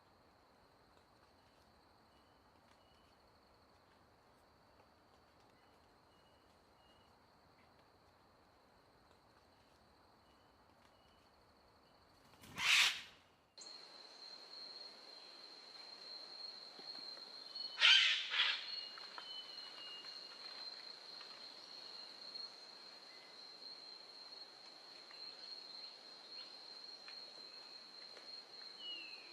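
Faint, short chirps of a small bird over a steady high-pitched insect drone, broken by two loud, brief noises about halfway through and a few seconds later.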